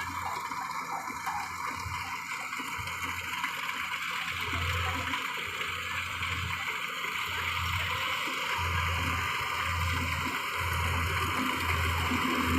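Rice combine harvester running: a steady hiss from the machine with a low engine rumble that comes and goes, growing more frequent and stronger in the last few seconds.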